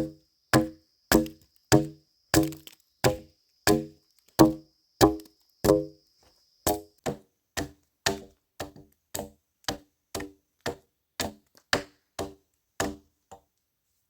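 Steady chopping blows into wood, about one and a half strokes a second, each blow with a short ringing knock. The blows grow softer about halfway through and stop shortly before the end.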